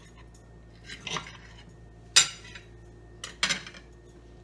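Cutlery clinking against a dinner plate in a few separate knocks, the sharpest and loudest about halfway through.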